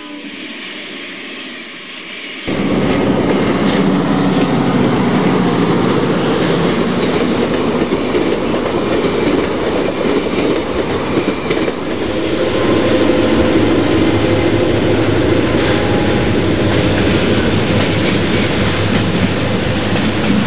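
Train wheels rolling and clicking over the rail joints, a loud steady rumble that starts abruptly about two and a half seconds in after a quieter stretch.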